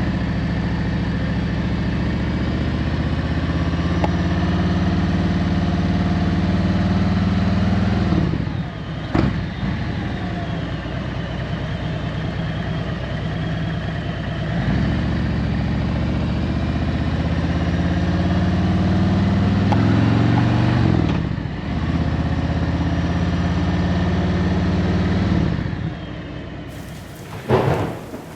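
Harley-Davidson Road Glide's V-twin engine under way, pulling through the gears. There are short breaks for shifts about 9, 15 and 21 seconds in, and the engine falls away near the end.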